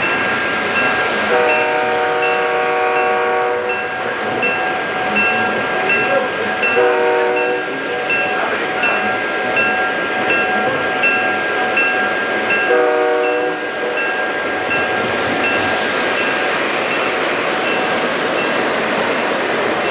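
Model train locomotive's electronic sound system sounding its horn three times, one long blast and then two short ones, while its bell rings steadily. Underneath is the steady rumble of trains rolling on the layout's track.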